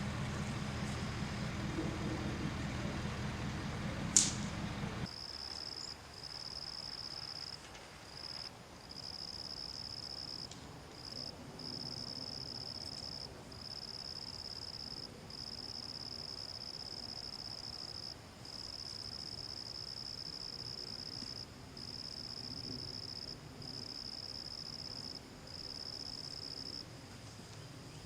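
A vehicle engine running with a low hum, a sharp click about four seconds in, then the engine sound stops about a second later. After that, insects, cricket-like, trill in long high-pitched pulses with short breaks.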